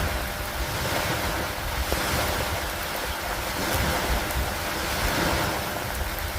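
Steady rain and wind with a low rumble underneath, the wash swelling and easing every second or two, with faint scattered drop ticks.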